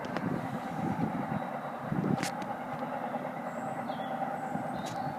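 Freight train running along the line at a level crossing: a steady rumble broken by a few sharp clacks, one about two seconds in and one near the end.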